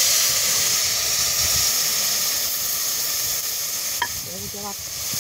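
Wet curry mixture of curry powder, turmeric and water poured into hot oil in a pot, frying with a loud sizzle that starts suddenly and slowly dies down. This is the curry paste beginning to fry in the oil.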